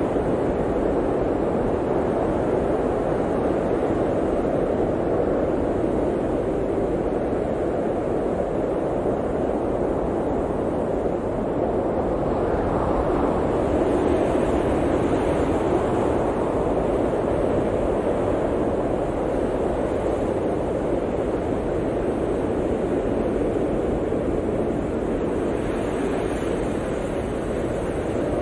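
Blizzard wind blowing steadily, a low rushing noise that swells in gusts about halfway through and again near the end.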